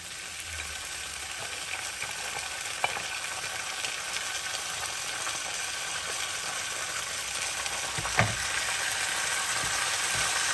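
Beef and sliced bitter melon sizzling in oil in a non-stick frying pan, a steady hiss that grows slowly louder as the food is stirred with a spatula. A few short knocks against the pan, the loudest about eight seconds in.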